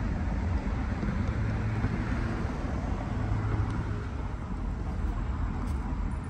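Train moving away down the tracks: a steady low rumble with an engine hum that fades about four seconds in.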